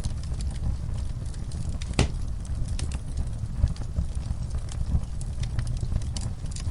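Fire burning in a fireplace, crackling with irregular sharp pops over a steady low rumble, with one louder pop about two seconds in.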